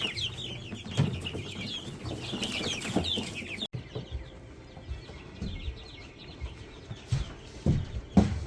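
A crowd of young broiler chicks peeping, many short falling cheeps at once, with a few knocks and bumps mixed in. The peeping becomes fainter a little past the middle.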